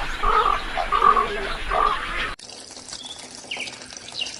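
An animal calling in short repeated notes, about two a second, over a hissing background; a little past two seconds in it cuts off suddenly, and faint bird chirps follow.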